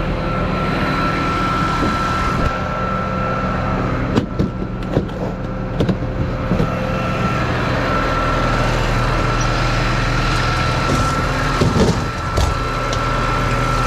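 Tow truck engine idling steadily, with a faint steady high whine over it and a few short metallic knocks and clanks around four to seven seconds in and again near the end.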